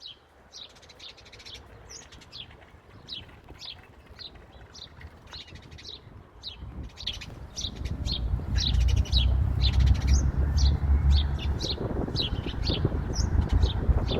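A bird chirping over and over in short, high calls, about two a second. About halfway through, a low rumble comes in underneath and becomes the loudest sound.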